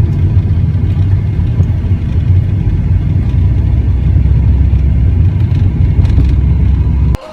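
Loud, steady low rumble of a car on the move, heard from a dash camera inside the vehicle. It cuts off suddenly near the end.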